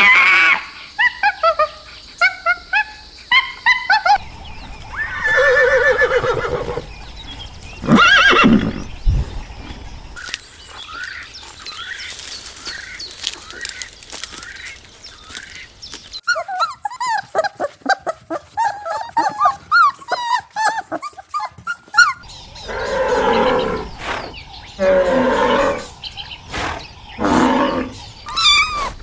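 Farm animals calling one after another: quick short high calls at the start, longer pitched cries a few seconds in and again near the end, and a dense run of rapid chirps in between.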